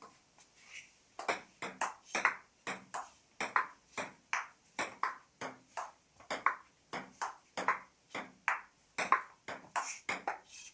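A long table tennis rally: a celluloid-type ball clicking in turn off the bats and the table, a sharp tick every half second or so.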